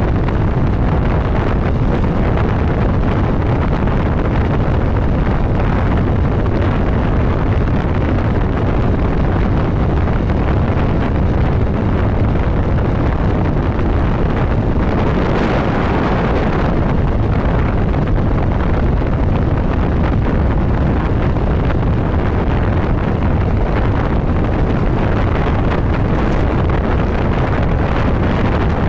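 Wind rushing over the microphone of a motorcycle riding at highway speed, over the steady running of the bike and its tyres on the road. A brief louder rush comes a little past halfway.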